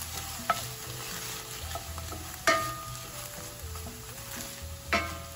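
Diced onion and green chilies sizzling in hot coconut oil in a white enamel skillet while a wooden spoon stirs them. The spoon knocks sharply against the pan three times, each knock ringing briefly, the loudest about halfway through.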